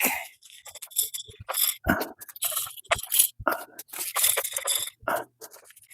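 Wild bird seed grain rattling and scraping inside glass spawn jars as they are shaken, in irregular bursts of clatter: the hot shake given to the jars straight after pressure-cooker sterilizing.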